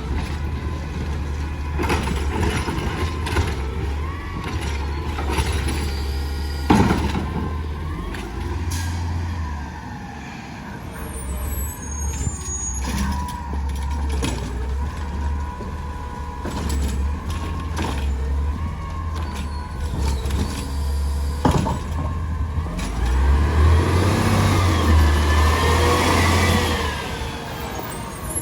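Garbage truck's diesel engine running steadily, with sharp metal clanks and knocks now and then. Near the end it gets louder, with a rising and falling whine over the engine.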